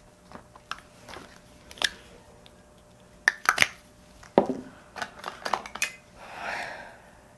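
Small clicks, taps and rustling from makeup items and a wet-wipe pack being handled, with a sharp click about a second and a half apart several times and a soft rustle near the end.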